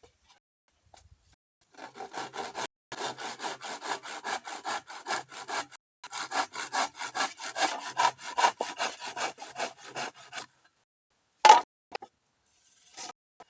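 Hand saw cutting through bamboo in quick, even strokes, in three runs with short pauses, then one sharp knock a little after the sawing stops.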